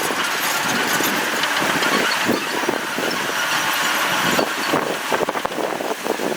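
Heavy construction machinery running: a steady, noisy engine sound with no clear pitch, broken by short rough crackles in the second half.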